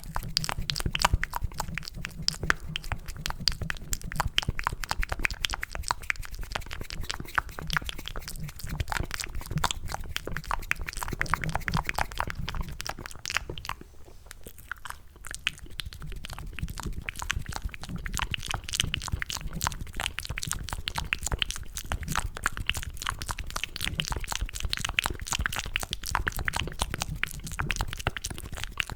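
Wet ASMR mouth sounds made into cupped hands close to the microphone, imitating the squelch of eating mac and cheese: dense rapid clicks and smacks, with a short pause about halfway through.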